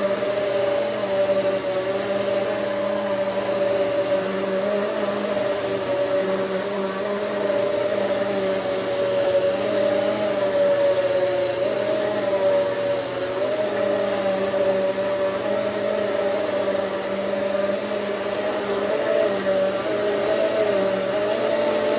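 Hoover Swivel XL Pet upright vacuum cleaner running steadily, its motor a continuous whine whose pitch wavers slightly as it is pushed along.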